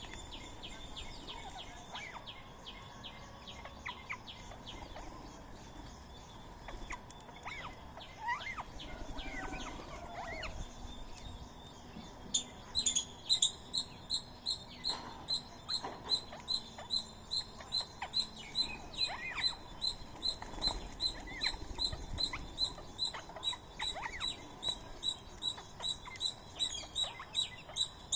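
Birds and a squirrel calling at a feeding spot: scattered short chirps and whistles, then, from about twelve seconds in, a loud high chirp repeated steadily about twice a second.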